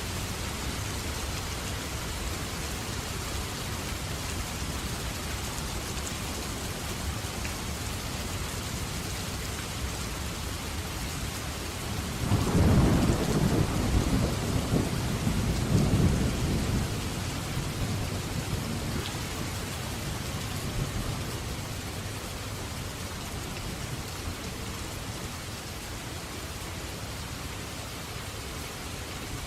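Steady heavy rain with a rolling thunderclap that breaks in about twelve seconds in, swells twice and rumbles away over several seconds.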